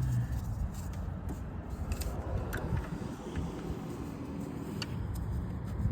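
Scattered light clicks and rattles of hands and tools working on the engine's hoses and fittings, over a low steady rumble.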